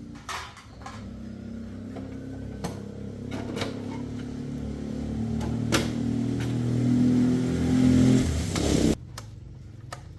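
Electric motor humming with a steady multi-tone whine that grows louder for about eight seconds, then cuts off suddenly near the end, with a few clicks along the way.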